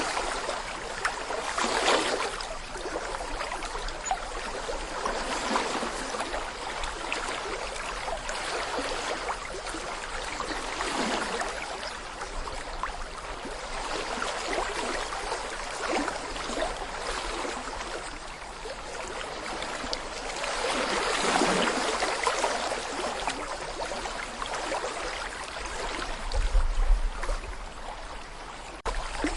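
Small brook babbling over stones: continuous rushing and gurgling water that swells and eases every few seconds. A short low rumble comes in near the end.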